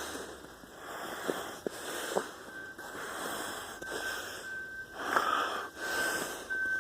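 A person breathing heavily in repeated swells, with a few faint clicks, and a faint steady high tone that comes in partway through.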